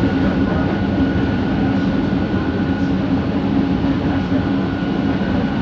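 Bombardier Innovia ART 200 train running, heard from inside the car: a steady rumble with a low hum and a higher whine held on one pitch from its linear induction motors. This is the motor noise the rider calls weird.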